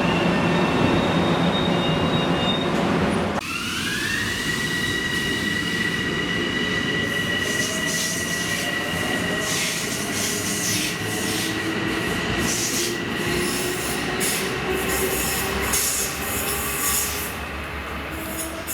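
A train passing close by on the rails, loud and rumbling, changing abruptly about three seconds in. A high squeal follows that rises in pitch and then holds steady, with repeated clicks of wheels over rail joints later on.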